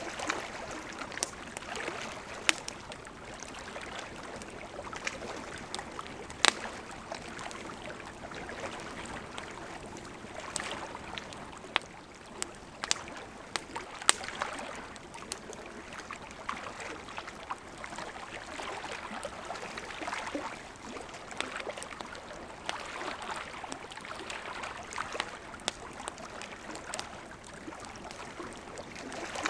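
Wood fire burning: a steady hiss with frequent sharp crackles and pops, a handful of them loud snaps.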